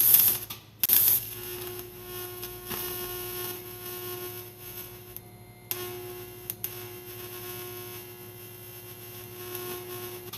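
A machine running with a steady, multi-toned hum, cutting out briefly about five seconds in and starting again; two loud hissing bursts come in the first second.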